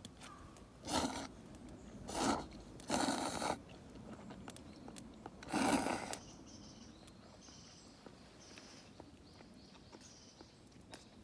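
Someone blowing hard on a smouldering campfire in four short puffs to keep it burning, followed by a quieter stretch with faint scattered clicks.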